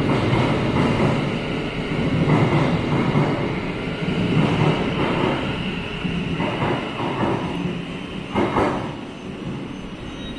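Thameslink Class 700 electric multiple unit pulling out of an underground platform: steady wheel and running noise with a repeated clatter of wheels over rail joints, fading near the end as the train draws away.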